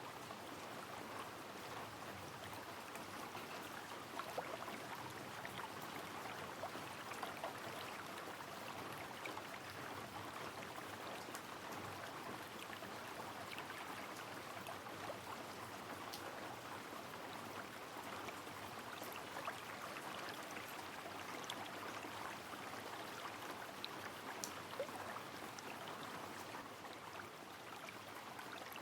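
Rain falling on a flowing river: a steady rush of running water, with scattered sharp drips and drop ticks over it.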